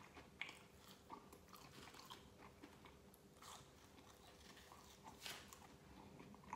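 Faint chewing of French fries, with soft crunches and small mouth clicks scattered irregularly.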